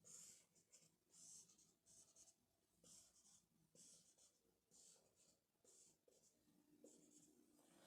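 Faint short scratchy strokes of a marker drawing on a whiteboard, about nine strokes roughly a second apart.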